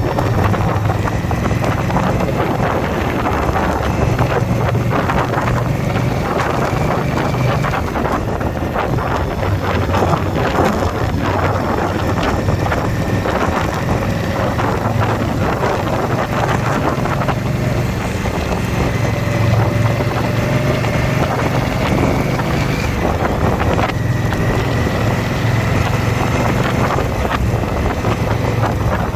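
A motorcycle engine running steadily at riding speed under heavy wind noise on the microphone. The engine's pitch climbs slowly and drops back about twenty-three seconds in.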